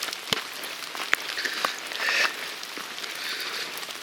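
Rain falling, a steady hiss of patter with scattered sharp drop ticks.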